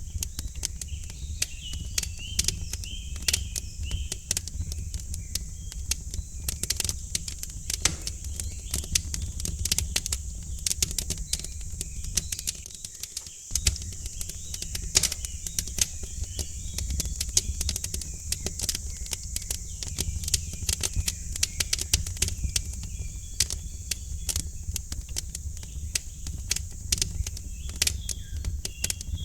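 Wood fire crackling in a fireplace, with dense irregular pops over a steady low rumble and a high hiss, while small birds chirp faintly throughout.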